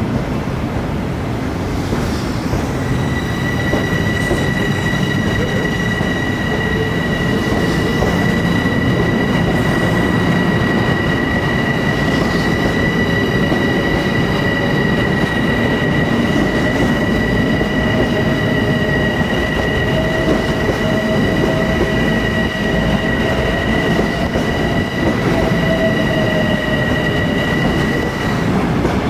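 A train rolling past with a steady rumble, its wheels giving a sustained high-pitched squeal that starts about three seconds in and stops shortly before the end.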